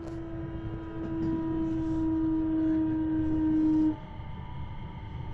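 Inside a moving electric train: steady running rumble with a strong, even humming tone that grows louder and then cuts off abruptly about four seconds in.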